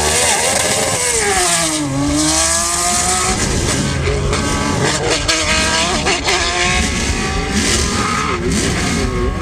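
Racing car engine running hard at high revs. Its pitch drops over the first two seconds, then climbs again and again, each climb cut off by a gear change.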